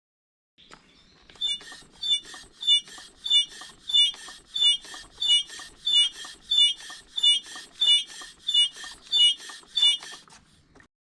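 BMW G 650 Xchallenge air shock squeaking as the rear suspension is pumped in and out, a sharp high squeak about every two-thirds of a second with a fainter one between; the squeak on compression and rebound is a known complaint with this air shock.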